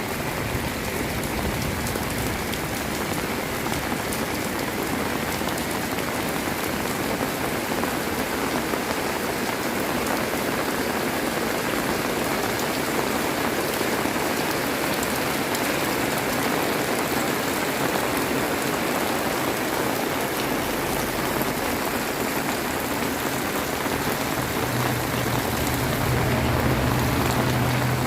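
Heavy rain pouring steadily, a dense, even hiss of drops. A low steady hum joins in about three-quarters of the way through.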